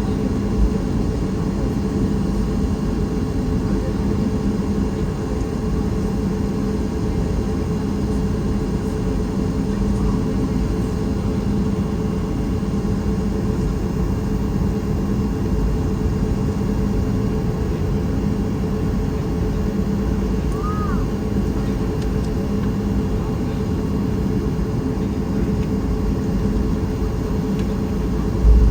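Steady cabin noise aboard a Boeing 737 MAX 8 airliner: an even rumble with a low, constant hum.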